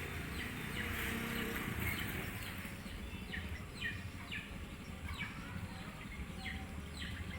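A small bird calling outdoors, a run of short downward-sliding chirps repeating about twice a second, starting a few seconds in, over steady low background noise.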